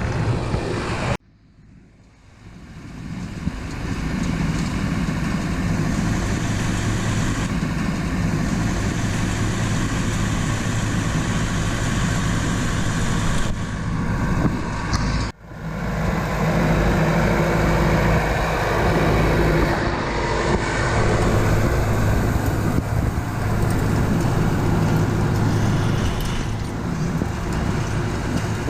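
Farm tractor engine running steadily under load. The sound cuts out about a second in and fades back up, with a second brief dropout about halfway through.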